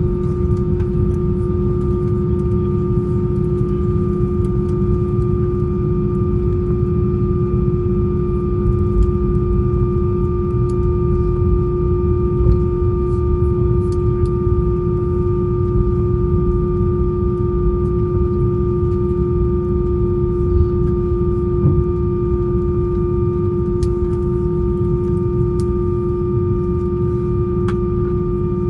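Airbus A320 cabin noise while taxiing after landing: a steady low rumble with a constant hum of several tones over it, and a few faint ticks.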